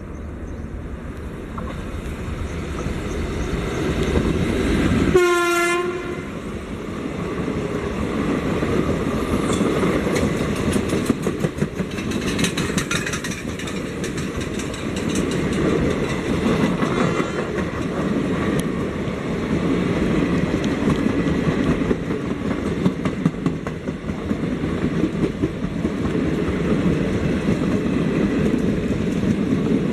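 Moving Indian Railways passenger train running steadily, with a low rumble and irregular clacks of the wheels over rail joints. About five seconds in, a train horn sounds once for about a second.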